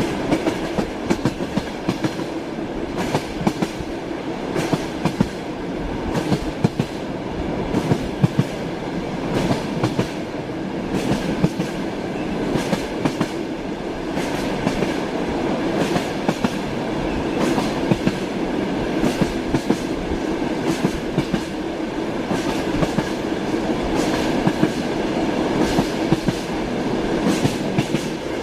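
Train wheels clacking over rail joints, a steady run of sharp clicks over the continuous rumble and hum of a moving train.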